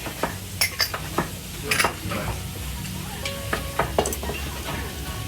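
Busy clatter of sharp clinks and knocks, like dishes and utensils, over a steady sizzling hiss, with a few short beeping tones around the middle.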